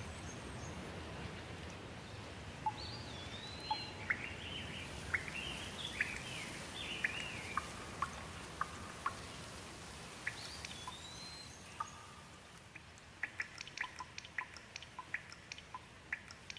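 Steady rain with birds calling over it: a couple of rising-and-falling whistled calls and many short chirps. The rain thins out in the second half, leaving a quick run of sharp chirps or drips near the end.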